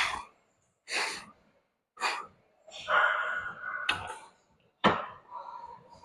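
A person breathing hard, with short sharp exhales about once a second and a longer, noisier breath about three seconds in.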